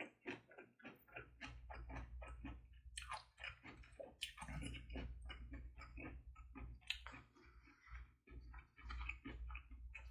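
Close-miked chewing of a mouthful of bossam (boiled pork) wrap: a rapid run of wet mouth smacks and clicks, several a second, with brief pauses.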